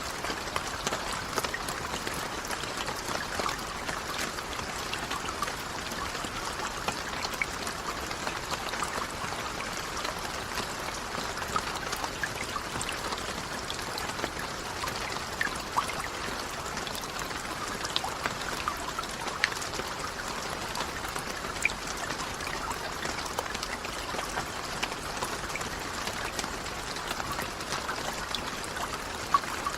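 Steady rain falling: an even hiss of water, dotted with many small sharp drop ticks.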